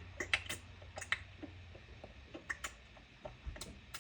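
Irregular light clicks and ticks, a few each second, over a low steady hum.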